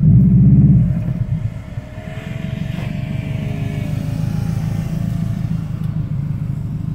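A car engine rumbling low and steady, loudest in the first second, with a faint whine that wavers in pitch for a couple of seconds in the middle.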